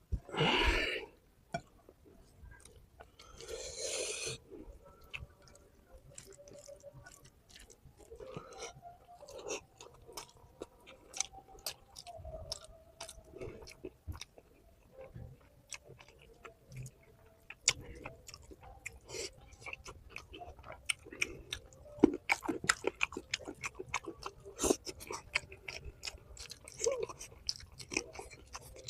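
Close-miked chewing and crunching of food in an ASMR eating session: many small wet clicks and crunches, with two louder noisy bursts in the first few seconds.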